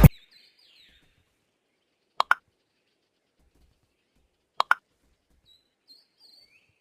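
Two sharp double clicks about two and a half seconds apart, with faint high chirps in between.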